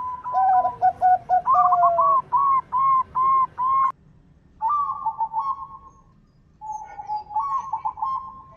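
Zebra doves (perkutut) cooing in runs of short, clipped notes, with a second, lower series of notes overlapping in the first two seconds. The song breaks off at about four seconds, returns briefly near five seconds, and a new phrase starts near seven seconds.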